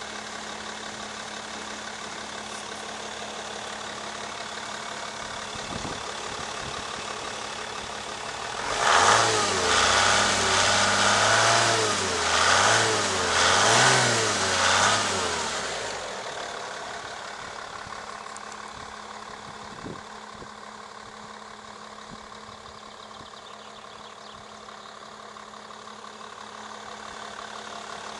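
Mercedes E 320 CDI six-cylinder diesel engine idling, then blipped several times in a row, about four rises and falls in pitch over some seven seconds, before settling back to a steady idle.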